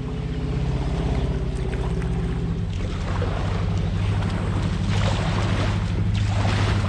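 Fast creek current rushing around a fishing kayak as it is paddled through a riffle, with a steady low rumble from wind on the microphone.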